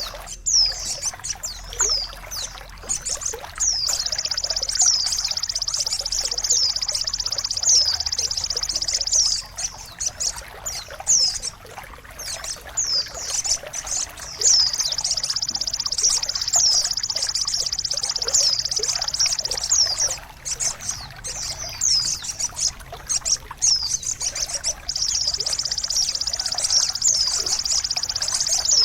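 Small songbirds singing almost without pause: dense, high rapid trilling with many quick falling whistled notes, briefly thinning a few times. It is a masteran song recording of the kind played to stimulate cagebirds that have stopped singing.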